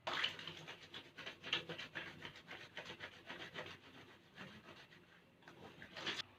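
Quick rubbing or scratching strokes against a surface, several a second, growing fainter in the second half and cutting off abruptly near the end.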